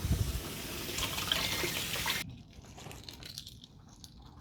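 Kitchen tap running water into a sink to cool freshly cooked hard-boiled eggs, shut off suddenly about two seconds in.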